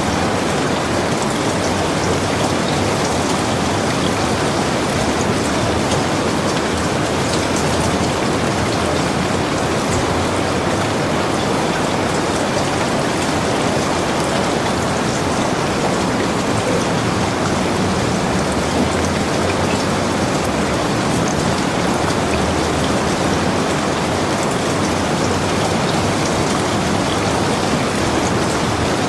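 Heavy rain falling steadily, a dense even hiss of drops with scattered sharper drop ticks, unchanging throughout.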